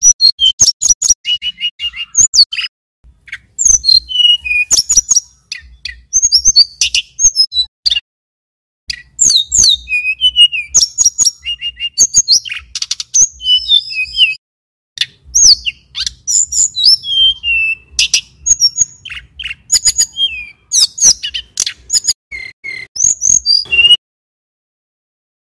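Male tledekan gunung (sulingan gunung) songbird singing long, fast runs of high chirping and whistled notes in phrases, with short pauses between them. The song stops about a second and a half before the end.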